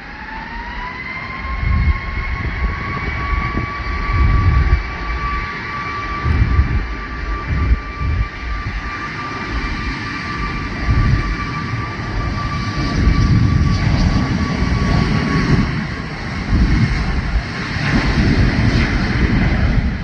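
Boeing 737 MAX 8's CFM LEAP-1B jet engines spooling up for takeoff. The fan whine rises in pitch over the first second or two, then holds steady and fades out after about fifteen seconds. Under it runs a loud low rumble that swells and drops unevenly.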